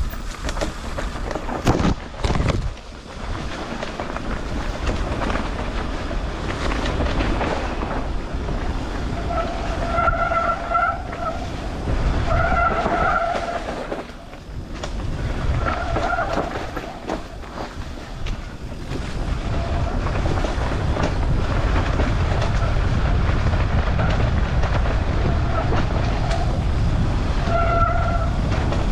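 Mountain bike riding down a dirt trail: continuous wind and tyre rumble with the frame rattling and knocking over rough ground. Brief squeals of the brakes come several times.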